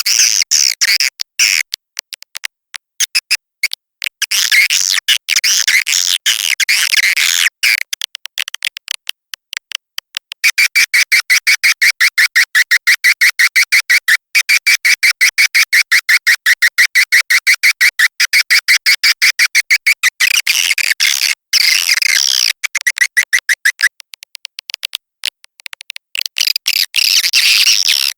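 Swiftlet calls from a swiftlet-lure recording: rapid twittering and chirring in choppy bursts with sharp cut-offs, and a long stretch of fast, even clicking in the middle.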